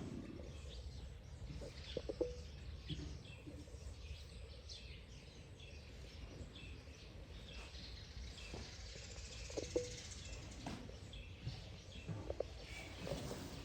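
Faint bird chirps scattered over a low steady background rumble, with a few short soft knocks and brief squeaks about two, ten and twelve seconds in.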